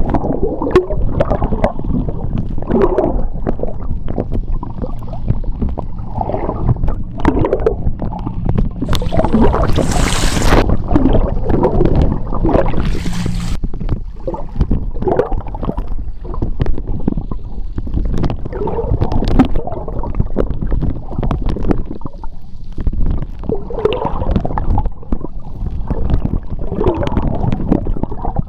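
Seawater heard underwater: a steady low rumble of moving water with irregular gurgles throughout, and two brief hissing bursts about nine and thirteen seconds in.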